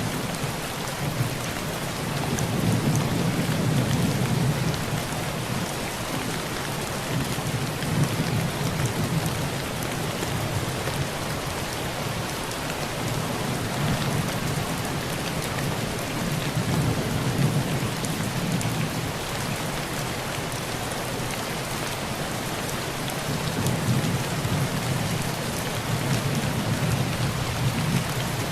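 Heavy rain drumming steadily on a tin roof, with low rumbles of thunder that swell and fade several times.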